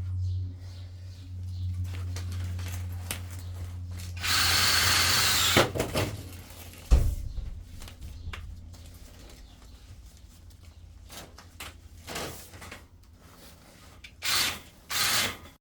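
Drain flexi-shaft cleaning machine running with a steady low hum, which dies away after a sharp thump about seven seconds in. A loud hissing rush comes just after four seconds, and two shorter rushes come near the end.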